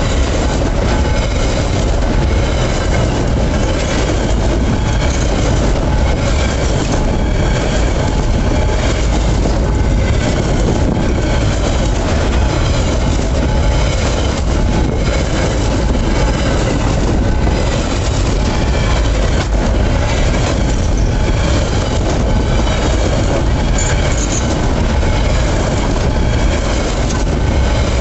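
Freight train wagons rolling past close by: a loud, steady rumble and clatter of wheels on rail, with a faint high squeal from the wheels.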